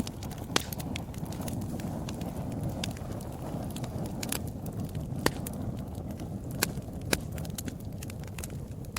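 Wood fire burning with a steady low rumble of flames and frequent sharp crackles, several louder pops standing out about half a second in and again around five, six and a half and seven seconds in.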